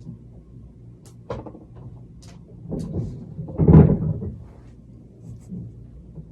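A few light knocks and clicks, then one loud, dull thud about three and a half seconds in, over a steady low hum.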